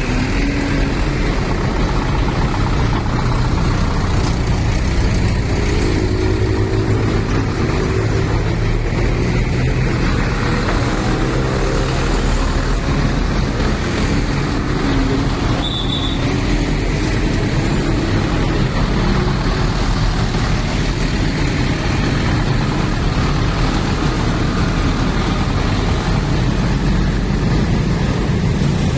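Engines of sugarcane transport trucks running steadily in low gear, a continuous low rumble with slowly shifting engine pitch. A short high-pitched tone sounds once about halfway through.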